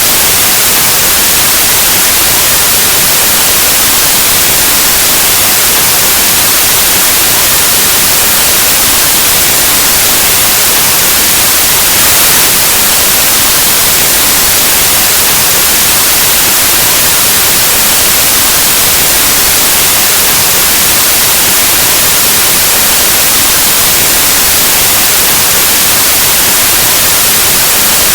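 Steady, loud white noise static, an even hiss across the whole range like an untuned analog television or radio.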